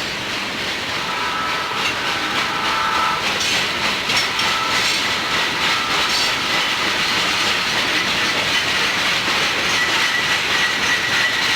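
Freight train rolling past close by: a steady rumble and clatter of wheels on rail, with clicks from the rail joints. Thin squealing tones come and go over it.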